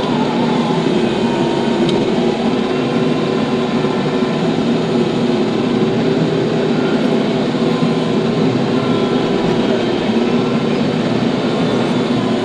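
TYM T574 tractor's diesel engine running steadily, as when working an implement.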